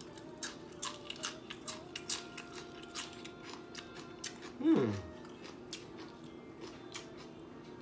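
A person biting and chewing crunchy raw vegetable, with many short crisp crunches. About two-thirds of the way through, a voice gives a short falling 'mm'.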